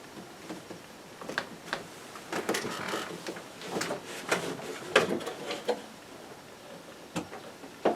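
Irregular knocks, clicks and light rustling of small objects being handled, with a sharper knock about seven seconds in.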